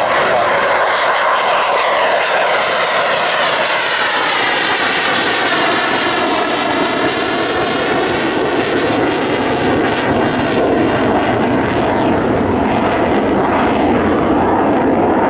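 Eurofighter Typhoon's twin jet engines at take-off power, a loud, steady jet sound that builds in at the start; about midway its pitch pattern sweeps down and back up as the jet passes.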